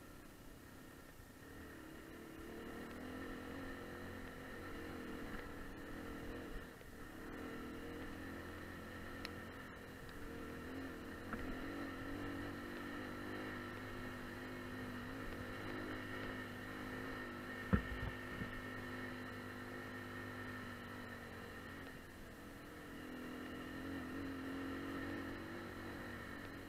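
AKT 250 adventure motorcycle's engine running as it rides a rough gravel track, its level swelling and easing with the throttle. A single sharp knock stands out about two-thirds of the way through.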